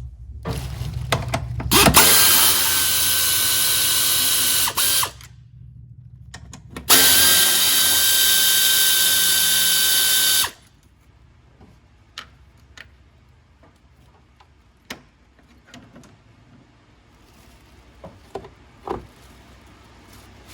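A power drill or driver runs in two steady bursts of about three seconds each, with a short pause between them. A few faint clicks and knocks of tools and parts follow.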